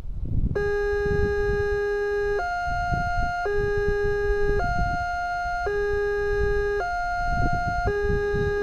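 Railway level-crossing warning siren switching on about half a second in: an electronic two-tone alternation, a lower and a higher tone each held about a second, over a low rumble of wind and traffic. It signals an approaching train and the barriers closing.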